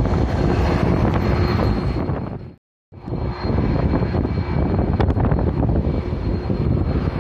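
Airliner engine noise close by, a loud steady rumble mixed with wind buffeting the microphone. The sound cuts out completely for a moment about two and a half seconds in, then resumes.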